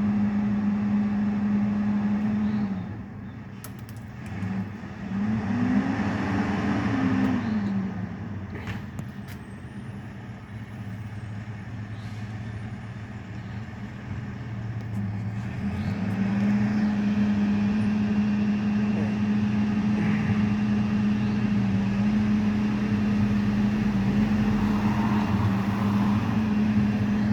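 Garbage truck engine running with a steady hum. About five seconds in, its pitch rises and falls once, as in a brief rev; after a quieter stretch the hum returns steadily from about sixteen seconds on.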